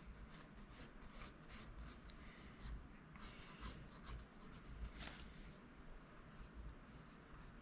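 Faint scratching of an HB graphite pencil (Faber-Castell) on paper in many short, quick strokes as a drawing is sketched, busiest about halfway through.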